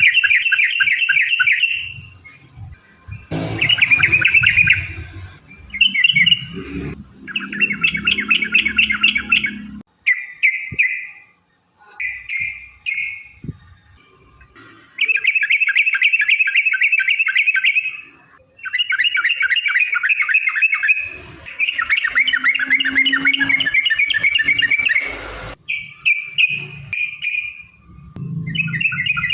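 Yellow-vented bulbul singing its rolling song in repeated bursts of rapid, bubbly chattering notes. Each burst lasts one to three seconds, with short pauses between them.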